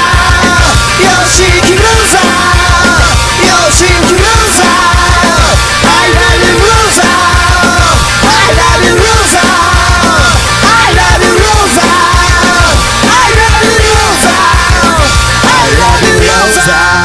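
Loud, fast punk-rock band music: distorted guitars over driving drums and bass, with a lead line bending up and down and no lyrics sung.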